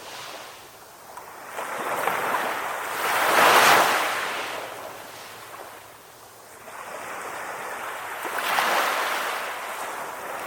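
Calm ocean waves washing in, each one a slow swell of rushing water that rises and falls away. The strongest wave comes about three to four seconds in and another near the end.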